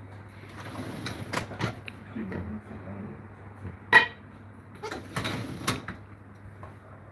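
Kitchen clatter: a series of knocks and clinks of dishes and cupboard doors being handled, the loudest knock about four seconds in, over a low steady hum.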